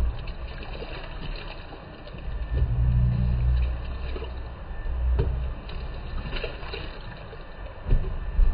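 Electrolux Turbo Compacta top-loading washing machine agitating a load of rugs. The motor and agitator swell and ease off in surges a second or two long, over sloshing water.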